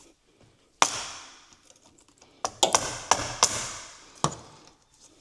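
Sharp taps and knocks of metal parts and tools against the truck while an oil cooler line is fitted: one about a second in, a quick cluster a little past the middle, and one near the end, each ringing out briefly.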